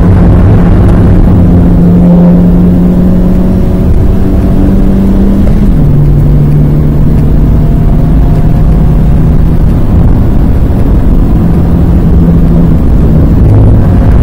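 Renault Twingo 1.2-litre four-cylinder engine heard from inside the cabin, pulling hard under acceleration, with road and wind noise beneath it. About six seconds in the engine note drops sharply as it shifts up a gear, then climbs again, and it changes again about ten seconds in as the car eases off.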